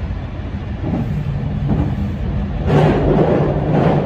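Running noise of a Meitetsu 9500 series electric train heard from inside the front of the cab: a steady rumble of wheels on rail under a constant low hum, with a louder rush of wheel and track noise about three seconds in and again near the end.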